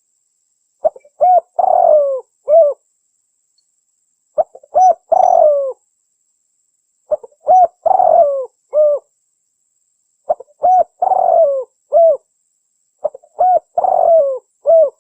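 Spotted dove (tekukur) cooing its song as a lure call: five phrases about three seconds apart, each a few short coos around one longer drawn-out coo.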